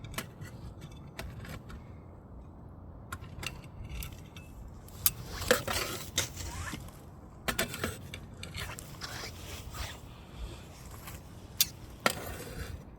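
Wood fire crackling, with irregular sharp pops and clicks, some louder and longer ones in the middle.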